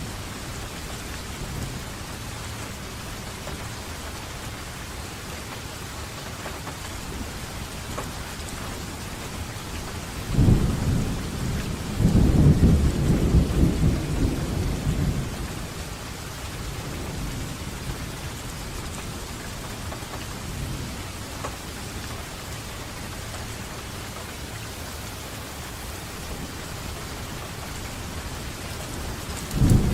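Steady rain falling, with a roll of thunder rumbling low for about five seconds near the middle and another starting at the very end.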